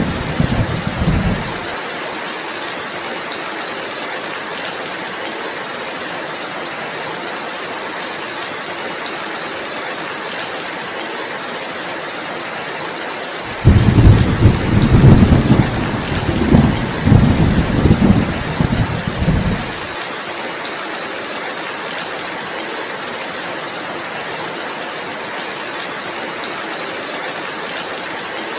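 Steady heavy rain. A deep rumble of thunder tails off in the first second or two, and another breaks in suddenly about halfway and rolls on for about six seconds.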